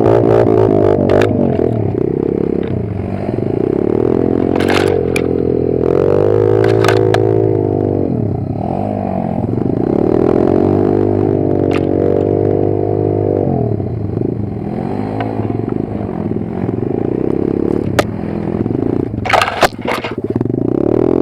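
Kayo 140 pit bike's single-cylinder four-stroke engine revving up and down repeatedly as it is ridden, its pitch swelling and dropping every couple of seconds. Sharp clattering knocks come now and then, several in quick succession near the end.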